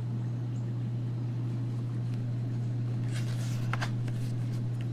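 Steady low hum with a few soft rustling sounds about three seconds in.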